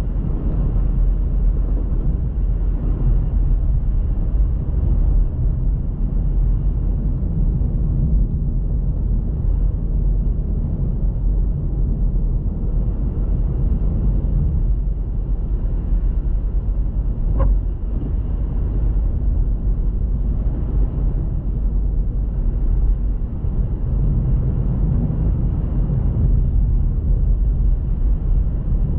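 Car driving: a steady low rumble of engine and road noise, with a single short tick about seventeen seconds in.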